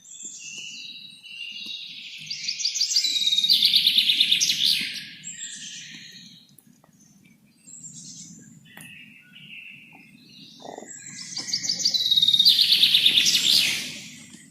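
A songbird singing: two long, loud phrases of rapid trilled notes about eight seconds apart, with softer scattered chirps in between.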